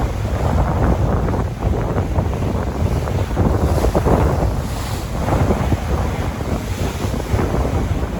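Sea waves washing in a continuous rush that swells and eases, with wind buffeting the microphone as a heavy low rumble.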